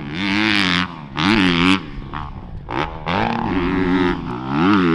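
Dirt bike engine revving in four hard bursts, its pitch climbing each time the throttle opens and dropping off in the short gaps between.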